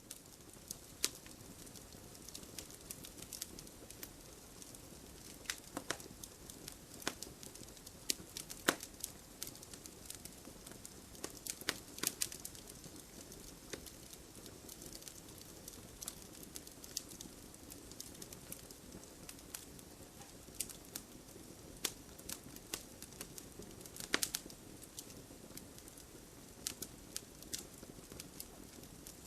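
Fire burning in a fireplace: a steady soft rustle of flames with irregular sharp crackles and pops, a few of them louder.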